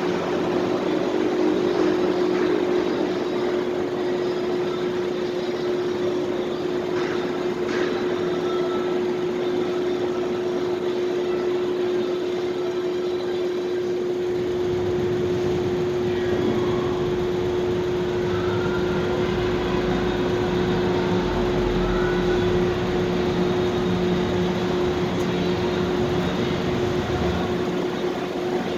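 Steady parking-lot ambience: a constant mechanical hum with one droning tone over a wash of machinery noise. A vehicle's low engine rumble joins in the second half.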